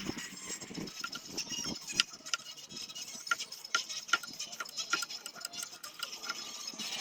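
A run of irregular light clicks and ticks, several a second, over a faint steady background.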